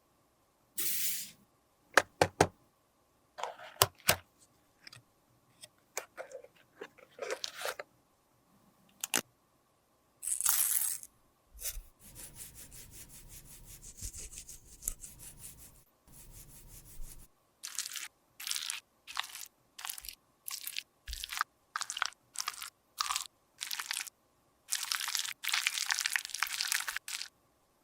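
Close-up sounds of cosmetics being worked by hand: crisp crunching and scraping with short taps, then a run of quick taps and a dense scraping stretch near the end, like powder or product being broken, pressed and scraped.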